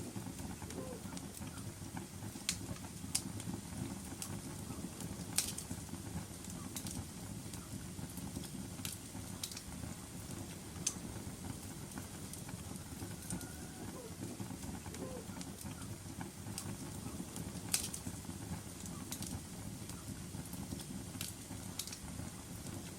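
Wood fire crackling in a fireplace: a steady low rumble of flames with irregular sharp pops and snaps, the loudest several seconds apart.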